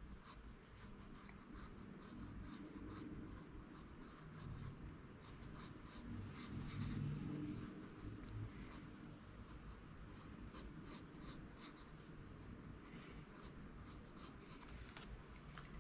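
Pencil sketching on paper: a run of faint, quick scratchy strokes.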